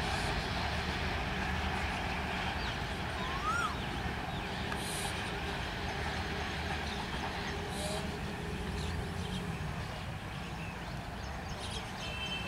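Passenger train's coaches running away at speed over the rails: a steady rumble of wheels on track that fades slightly as the last coach recedes.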